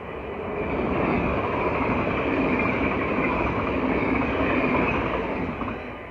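Dutch NS passenger train passing fast over a level crossing: the rush and rumble of wheels on rail swells in the first second, holds for about four seconds, then fades away near the end.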